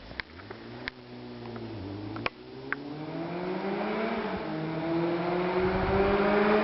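Yamaha FZS600 Fazer's 599 cc inline-four with a Sebring exhaust running, its note climbing steadily in pitch and growing louder over several seconds. A few sharp clicks come in the first couple of seconds.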